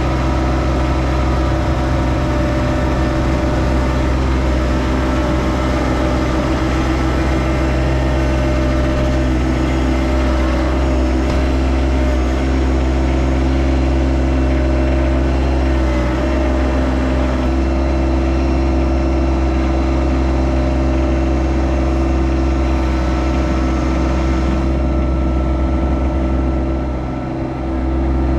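Yanmar SA324 compact tractor's diesel engine running steadily at a constant speed, with a brief dip in level near the end.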